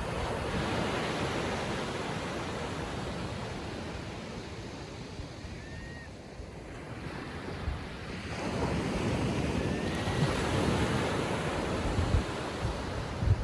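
Calm ocean surf washing onto a beach, the wash swelling, easing off in the middle and building again, with wind buffeting the microphone. Two faint short bird calls come through, one about midway and one a few seconds later.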